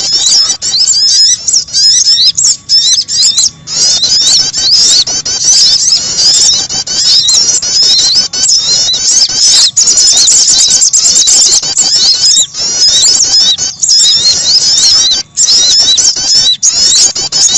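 Bird-lure recording of small songbird calls, played loud: a continuous stream of rapid, high-pitched chirps and quick rising and falling notes with only brief breaks.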